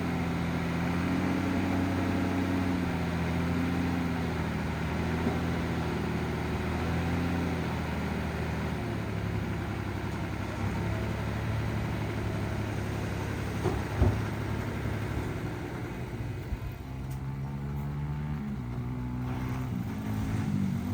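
Heavy diesel engine of earthmoving machinery running steadily, its pitch shifting as the load changes, with one sharp knock about two-thirds of the way through and the engine revving up near the end.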